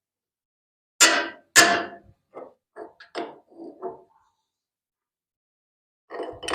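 Two loud, sharp knocks about a second in, then several lighter knocks and clunks, and after a pause two more near the end: hard objects, such as a metal tool, struck or set down on a hard surface.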